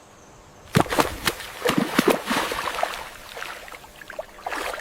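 Water splashing: a quick run of sharp splashes about a second in that trails off into sloshing, then a few smaller splashes and one more splash near the end.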